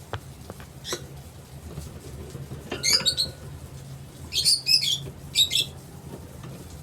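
Creamino lovebird giving short bursts of shrill chirps, three clusters in the middle, over a steady low hum, with a couple of light clicks near the start.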